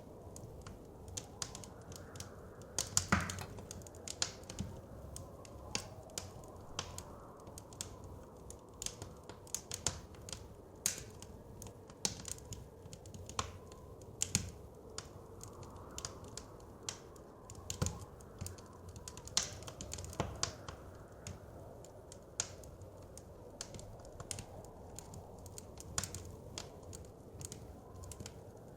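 Wood fire crackling, with irregular sharp pops and snaps, a few of them louder, over a soft steady blizzard wind.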